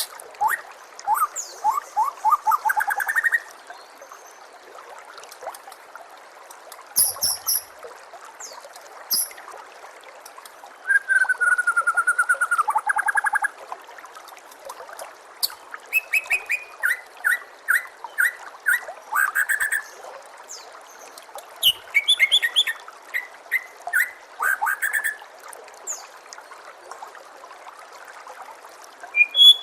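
White-rumped shama (murai batu) singing in separate phrases of rapid repeated notes and clear whistles, with pauses of a few seconds between them, over a steady trickle of water.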